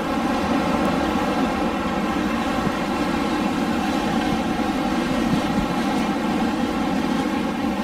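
Wind blowing as a steady, unbroken rushing noise that holds an even level throughout.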